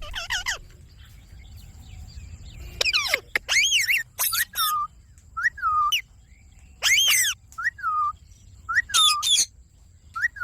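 Indian ringneck parakeet calling: after a quiet start, a run of short, high chirping calls, several of them quickly dropping in pitch.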